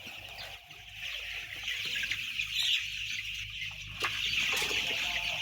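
A large flock of white chicks peeping all at once, a dense, continuous chorus of high chirps that swells about a second in. A single sharp click sounds near the end, over a low steady hum.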